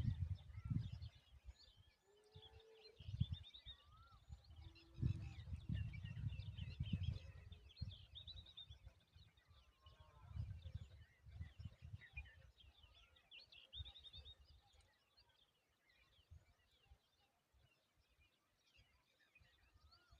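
Small birds chirping and twittering in short, scattered calls, thinning out over the last few seconds. Low rumbles come and go through the first half.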